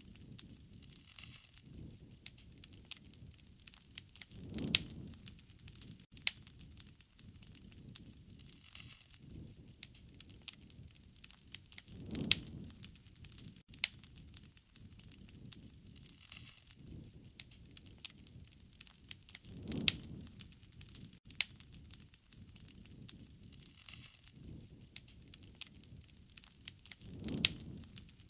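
Wood fire crackling, with frequent sharp pops and a low swell of flame about every seven to eight seconds.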